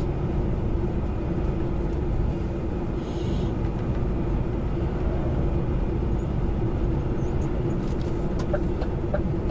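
Truck engine and road noise heard inside the cab, a steady drone with a constant hum. Near the end a turn-signal indicator starts ticking, about two to three times a second, as the driver turns in.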